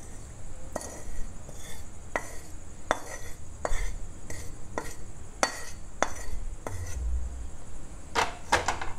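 Kitchen utensil knocking and scraping on a pan as roasted spice powder is scooped out into a mixer-grinder jar: a string of sharp taps, roughly one a second, some in quick pairs near the end.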